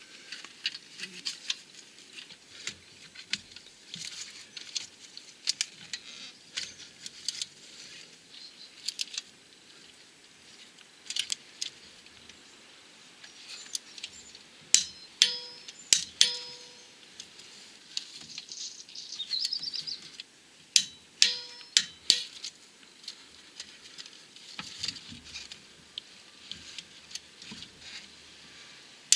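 Hand tools clicking and clinking on metal as the clutch pressure plate mounting bolts are tightened to torque: scattered sharp clicks, with a handful of louder metallic clicks in the middle that ring briefly.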